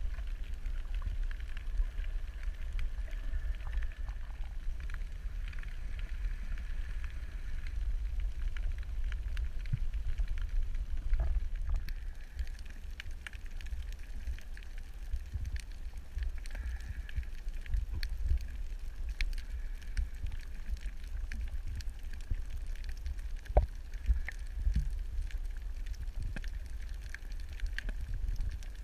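Underwater ambient noise: a steady low rumble of moving water with scattered faint clicks and crackles.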